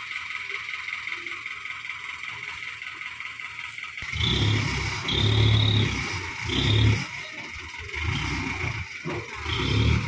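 Hino Dutro dump truck's diesel engine running steadily, then revved in about five loud surges from around four seconds in.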